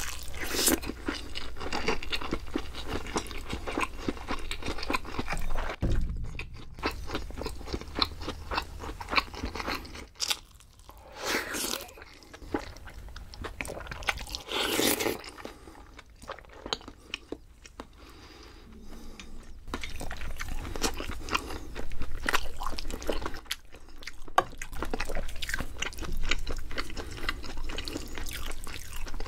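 Close-miked chewing and biting of spicy stir-fried octopus over rice: a dense run of short, wet clicks and crunches, with a few louder mouthfuls about eleven and fifteen seconds in.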